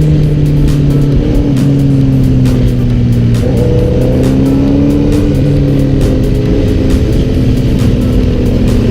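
Motorcycle engine running while riding, its pitch stepping down and up a few times as it shifts and changes speed, with background music over it.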